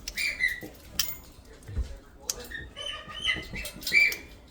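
Congo African grey parrot making short chirping, clucking calls, several in quick succession near the end, with a few sharp clicks in between.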